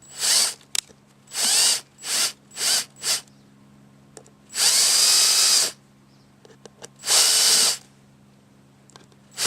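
Power drill-driver driving two screws into a cedar birdhouse front to fasten a predator guard, its motor run in a series of short bursts that speed up and slow down, with a longer run of about a second in the middle and another just before the end.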